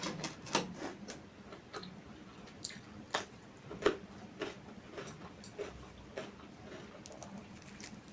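Close-miked eating sounds: irregular sharp clicks and smacks of chewing and handling food, the loudest just before four seconds in.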